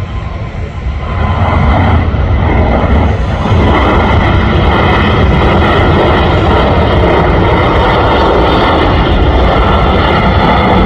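Airliner engines running loud and close, swelling about a second in and then holding as a steady, heavy roar with faint whining tones on top.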